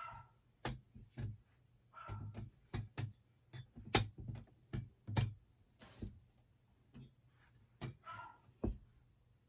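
Irregular sharp clicks and knocks, like metal parts of a compact steel fire pit being handled, with three short whines from a small dog: at the start, about two seconds in and about eight seconds in.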